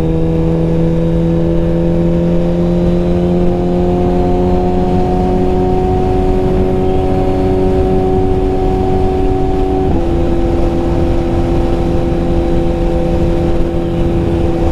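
2021 Suzuki GSX-R1000R's inline-four engine running through a Brock's full exhaust under way, its note climbing slowly, then dropping sharply with one upshift about ten seconds in, over a steady rushing noise.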